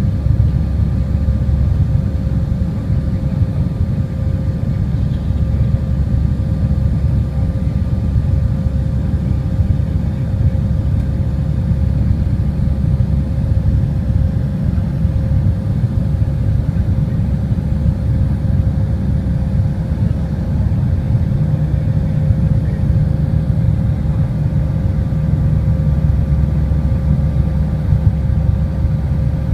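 Airliner cabin noise after take-off: a steady low rumble of engines and airflow, with two faint steady hums above it, unchanging throughout.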